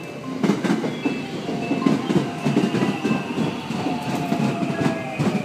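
JR West 521 series electric multiple unit, two sets coupled, running past at close range. Its wheels clatter and thump over rail joints, with a faint whine that falls slowly in pitch.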